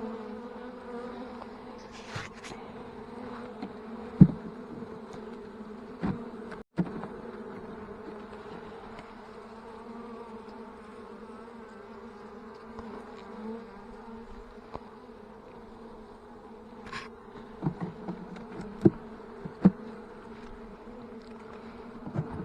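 Italian honeybees buzzing at an open hive, a steady low hum. A few short knocks and clicks break in, around four and six seconds in and again near the end.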